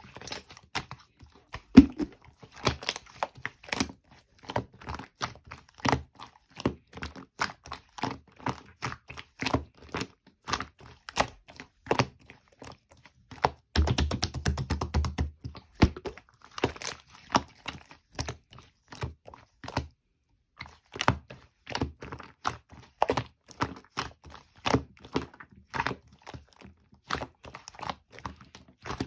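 Hands squishing, folding and pressing an opaque blue slime, making a dense, irregular run of small sticky clicks, pops and crackles. About halfway through, a quick, rattling run of pops lasts a couple of seconds.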